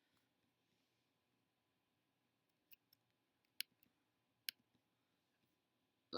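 A few isolated computer mouse clicks in near silence, the loudest two about a second apart, followed by a brief louder sound at the very end.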